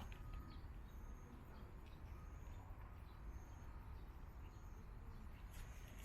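Faint outdoor ambience: a small bird repeating a short, thin high call about once a second over a low steady rumble.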